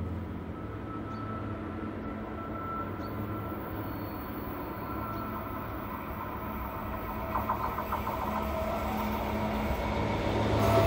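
A train approaching on a curved mountain line, its rolling rumble growing steadily louder toward the end. A few clicks about two-thirds of the way through, with thin whining tones from the wheels on the curve.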